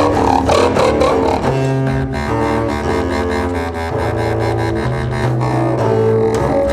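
Experimental chamber music for clarinet and double bass: low held notes, each changing pitch every second or so, over a rapid stream of clicks.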